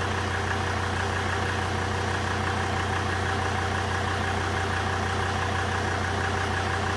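Volvo V70 D5's five-cylinder turbodiesel engine idling steadily. It is left running so the automatic gearbox's pump pushes transmission fluid out through a cooler hose, flushing old fluid out of the gearbox.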